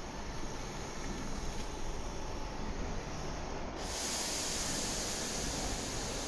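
Train running noise, a steady rumble with no clear pitch, joined by a sudden steady hiss about four seconds in.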